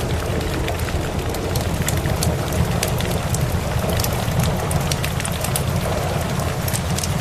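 Wood fire crackling with frequent sharp pops, layered over steady rain and a continuous low rumble.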